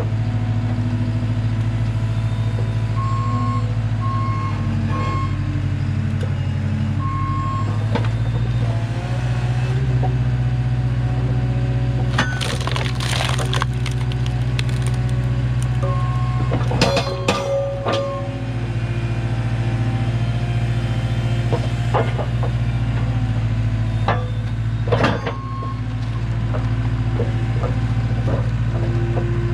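Skid steer engine running steadily under load while working a hydraulic wood splitter, its reversing alarm beeping on and off. Sharp cracks and crunches of big wood rounds splitting come a few times: about halfway, a little later, and near the end.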